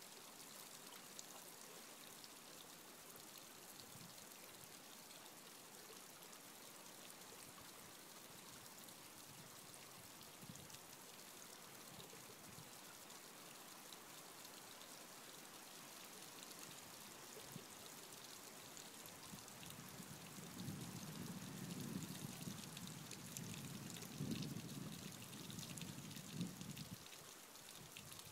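Small mountain stream babbling and trickling over rocks, a faint steady rush of water. From about two-thirds of the way in, an uneven low rumble comes and goes beneath it.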